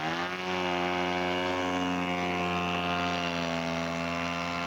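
Radio-controlled scale model airplane's engine opening up for the takeoff roll. Its pitch climbs over the first half-second, then it holds a steady full-power note.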